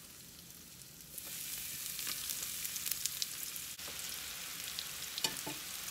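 Chickpea-flour-coated burro banana fries frying in hot avocado oil in a cast-iron skillet, a steady sizzle. The sizzle gets sharply louder about a second in as more fries go into the oil.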